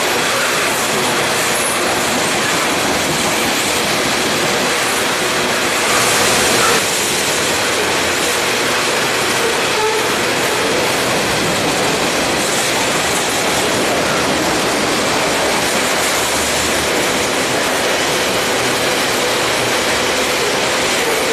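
Railroad cars of a passing freight train rolling by: a steady rush and clatter of steel wheels on the rails, with a brief louder stretch about six seconds in.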